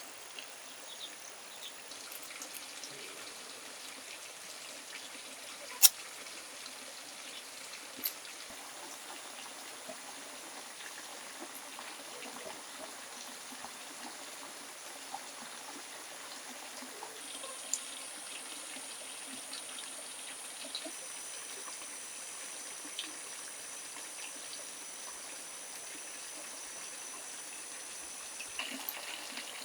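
Steady trickling water, with a high, steady insect whine joining past the middle. A few sharp clicks, the loudest about six seconds in.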